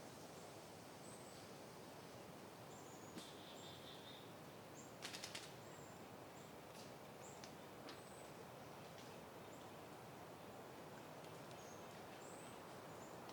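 Soft, steady wind noise with faint, high bird chirps scattered through it. A quick run of four clicks comes about five seconds in.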